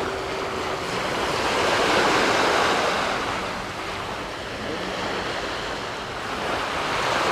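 Small sea waves washing onto a sandy beach, swelling about two seconds in and again near the end.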